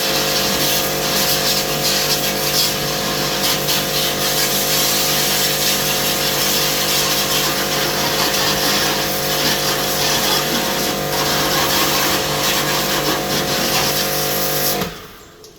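A power tool running steadily, with a constant hum under a dense hiss. It cuts off suddenly about a second before the end.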